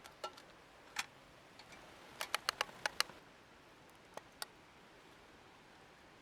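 A scattered series of sharp clicks: one about a second in, a quick run of about six between two and three seconds, then two more a little after four seconds, over a faint steady background.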